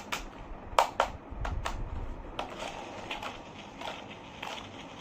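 Plastic toy vehicles being handled: a run of sharp clicks and knocks, the loudest about a second in, then lighter ticks and rattling.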